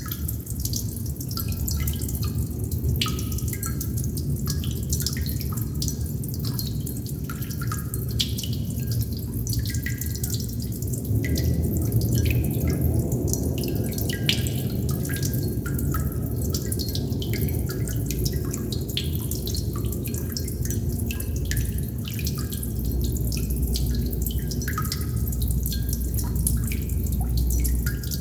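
Water droplets falling and dripping one after another at an uneven pace, many small plinks over a steady low rumble.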